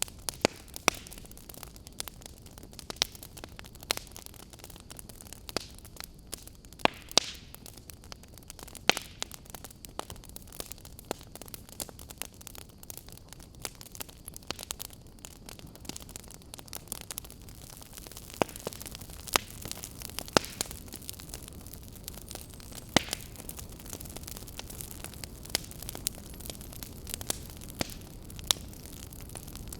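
Wood fire crackling in a fireplace: a steady low hiss of burning with frequent irregular sharp pops and snaps.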